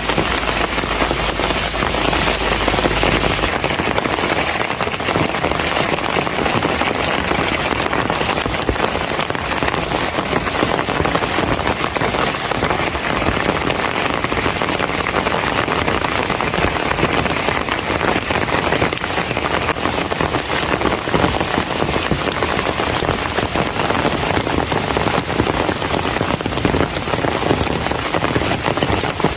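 Heavy summer monsoon rain falling steadily, a dense patter of many drops hitting surfaces.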